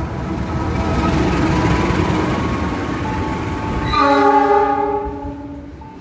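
Container freight train passing with a loud rumble of wheels on rail, then a locomotive horn blast of nearly two seconds about four seconds in.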